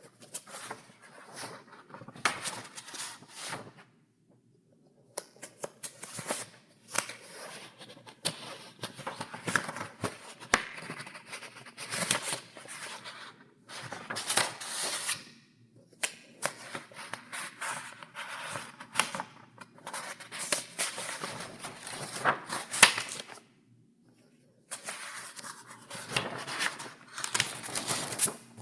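Paper pages in a file being turned one after another, rustling with crisp snaps, in runs broken by a few short pauses.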